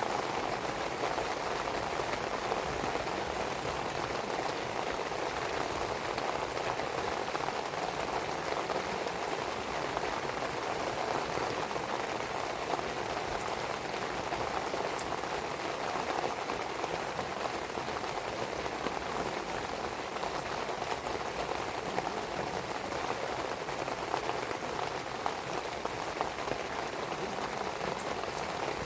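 Steady rain pattering densely on a surface, with a few faint high crackles from a burning wood fire about halfway through and again near the end.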